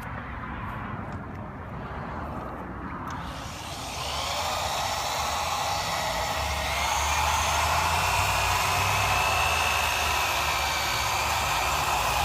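Power drill spinning a compounding pad against a plastic headlight lens: a steady whine that starts about three seconds in and gets louder a few seconds later.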